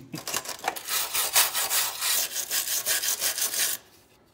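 Rapid, rhythmic hand scraping or rubbing strokes, several a second, like sawing or brushing, that stop abruptly near the end.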